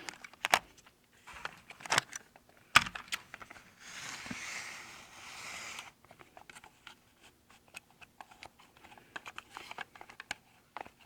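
HO scale model train rolling over the layout's track: irregular light clicking of wheels over rail joints, with a brief soft hiss about four seconds in.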